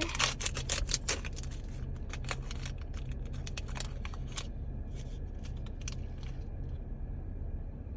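Plastic packaging crinkling and clicking as a Mini Brands toy capsule and the small bag inside it are opened by hand. The clicks come thick over the first four seconds or so, then thin out to a few.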